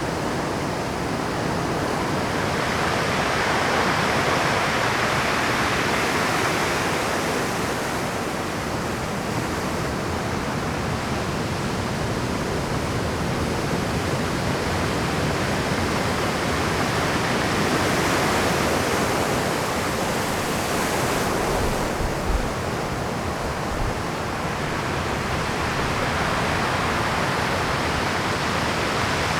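Rough ocean surf breaking on a rocky shore at high tide: a continuous loud wash of water that swells twice as bigger waves crash in, with a couple of brief low thumps a little over halfway through.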